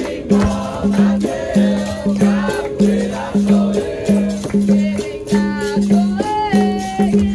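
Capoeira roda music: berimbau notes repeating in a steady rhythm, shaken caxixi rattle and strikes, with voices singing over it.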